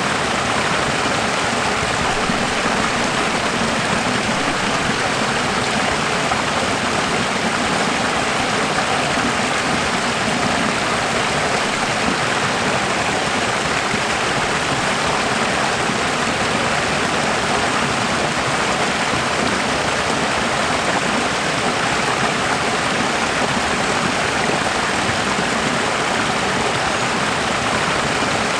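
Running water flowing steadily, an even rushing sound like a stream, with no change in level.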